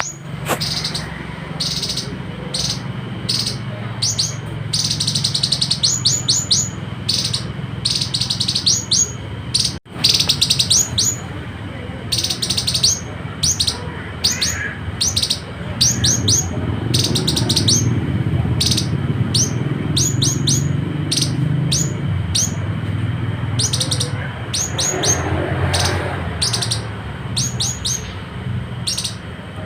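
Citrine canary-flycatcher singing: quick runs of short, high, thin notes, repeated over and over every second or so, over a steady low hum. The sound cuts out briefly about a third of the way through.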